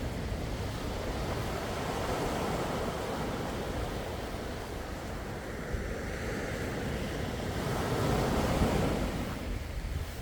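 Sea waves washing in on the shore, a steady rush that swells twice, the louder swell about eight seconds in.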